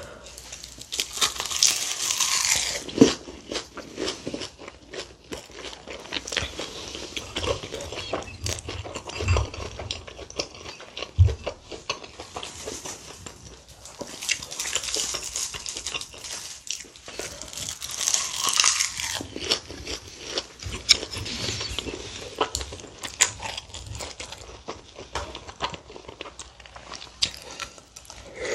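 Close-miked eating: roasted laver (gim) wrapped around rice being bitten and chewed with crisp, crackly crunching that comes in bursts, with softer wet chewing between.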